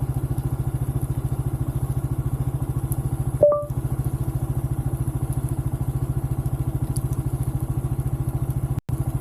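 Motorcycle engine running at a steady low speed, its exhaust pulsing evenly about ten times a second. A short beep sounds about three and a half seconds in.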